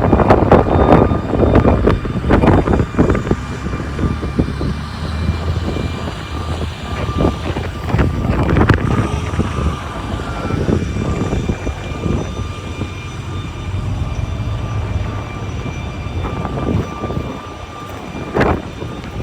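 Strong wind gusting over the microphone, with a steady low rumble beneath and a faint steady whine. The gusts are loudest in the first few seconds and again near the end.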